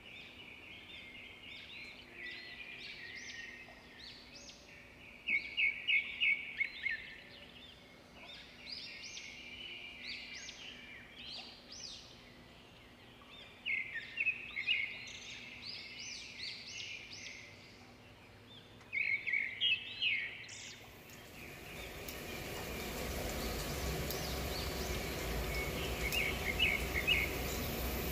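Small birds chirping in short bursts of quick, high notes, several times over. From about 21 seconds in, a steady hiss comes up beneath them.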